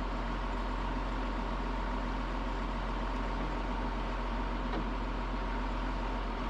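A vehicle engine running steadily, a low, even hum.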